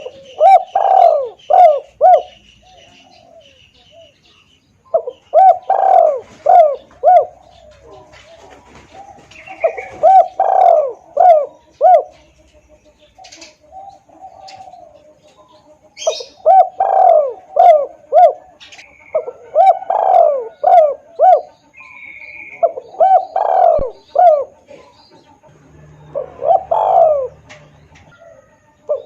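Spotted dove (tekukur) cooing: loud phrases of several quick coos each, repeated every few seconds, used as a lure call to draw wild doves. Faint chirps of small birds come between the phrases.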